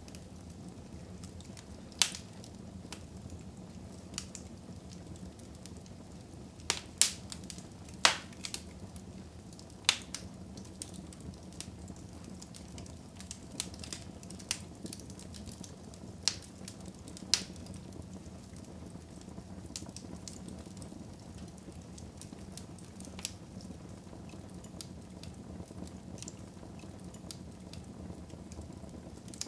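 Fire in a fireplace crackling over a steady low hiss, with scattered sharp pops. A handful of louder pops fall in the first two-thirds.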